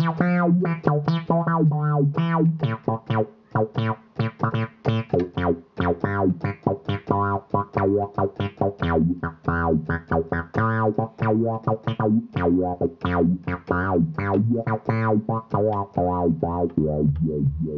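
Omnisphere software synthesizer playing a plucky monosynth lead patch: a fast run of short, clipped notes over held low bass notes.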